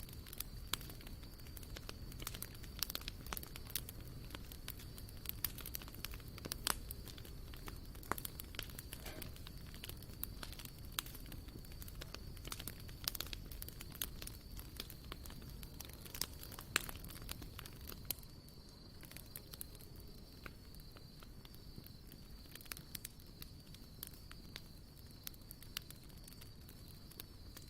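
Wood campfire crackling, with frequent sharp irregular pops that thin out somewhat about two-thirds of the way through. A faint steady high-pitched tone runs underneath.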